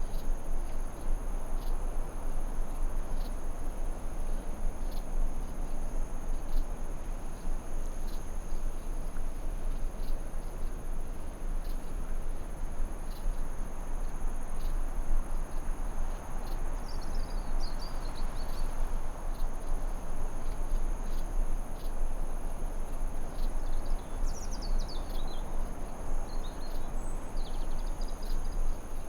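Forest ambience: a steady, high-pitched insect trill over an even rushing noise, with a few short bird chirps about seventeen seconds in, around twenty-four seconds, and near the end.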